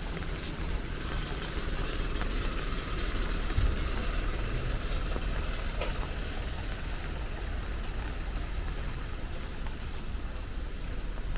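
A motor vehicle's engine running on a rain-wet street over a steady hiss of rain, with one brief low thump a few seconds in.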